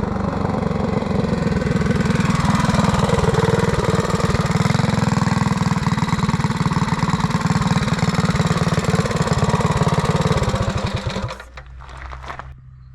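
Mini bike's small single-cylinder four-stroke engine running hard at full throttle, building over the first few seconds and then holding steady. It cuts off sharply about eleven seconds in, leaving a quieter low steady hum.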